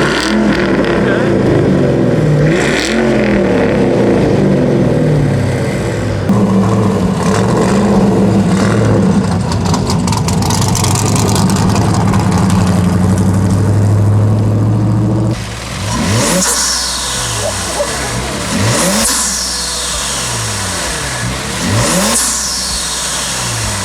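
Ford Mustang's engine running with its exhaust loud and rumbling for about fifteen seconds, the pitch shifting slowly. After an abrupt change near two-thirds of the way in, a car engine is revved up and let fall three times, about three seconds apart.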